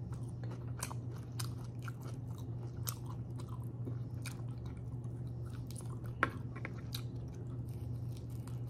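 Close-up mouth sounds of a person chewing grilled pork chop: scattered small wet clicks and smacks, with one sharper click about six seconds in and a bite into the meat near the end. A steady low hum runs underneath.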